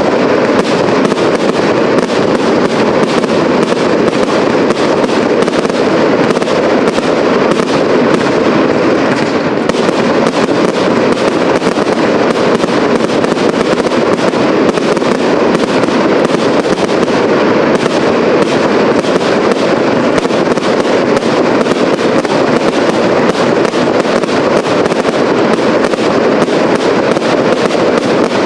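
Fireworks display in a sustained barrage: shells and rising comets going off in rapid, unbroken succession, a dense, steady stream of bangs.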